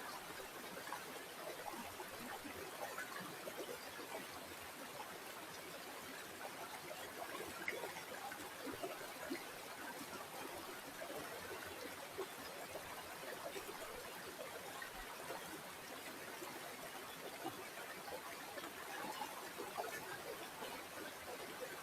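Water flowing and trickling steadily, a soft continuous babble with small splashes and gurgles throughout.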